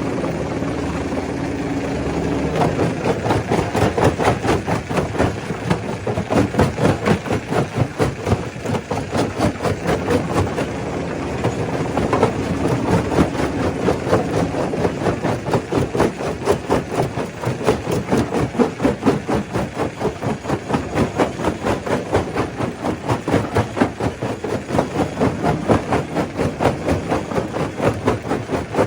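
Stone crusher running and crushing rock: a steady mechanical running sound that, about two seconds in, gives way to a fast, continuous clatter of knocks that pulses in loudness.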